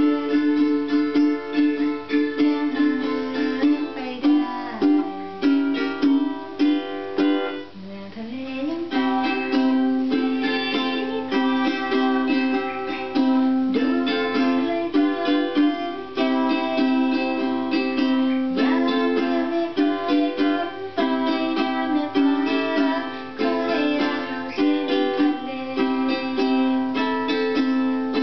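Ukulele playing a tune, quick plucked notes over chords, with a short softer passage about eight seconds in.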